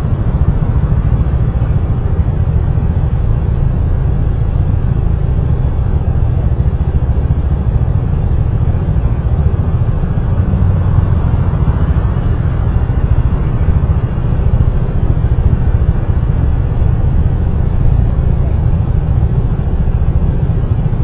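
Steady, loud rumble of road and wind noise from a moving vehicle, heaviest in the deep bass and unchanging throughout.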